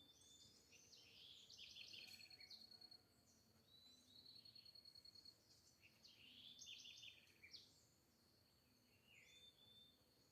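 Faint birdsong: several birds chirping and singing in quick, sweeping phrases, with a high, even trill that comes and goes in short runs.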